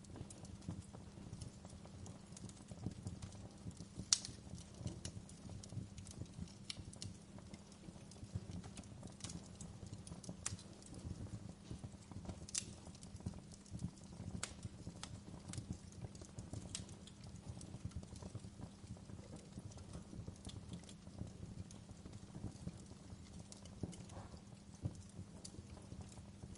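Fireplace fire crackling: irregular sharp pops and snaps, the loudest about four seconds in, over a steady low background.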